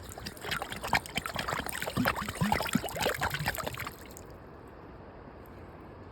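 Creek water splashing and trickling with a few gurgles as a glass bottle is handled in the shallows, lasting about four seconds before it stops and leaves only a faint steady background.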